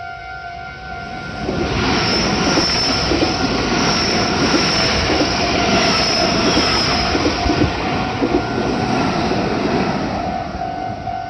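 A Meitetsu Nagoya Main Line train passes over a level crossing. Its running noise and wheel clatter come in about a second and a half in, with several short high squeals, and fade near the end. The crossing's warning bell keeps dinging under it.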